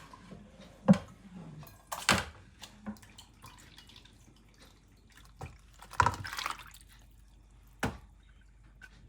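Water splashing and dripping in a handful of separate splashes and knocks, the loudest about a second in, around two seconds in and around six seconds in.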